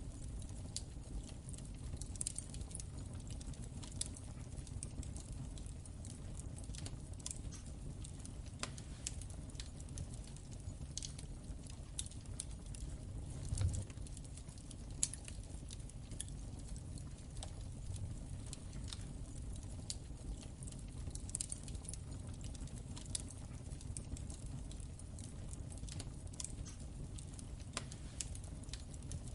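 Wood fire crackling in a fireplace: irregular sharp snaps and pops over a steady low rumble of the flames, with one louder pop about halfway through.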